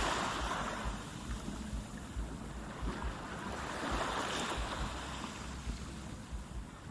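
Rushing noise of waves and wind that swells and ebbs, building again about four seconds in, with wind buffeting the microphone in low rumbles.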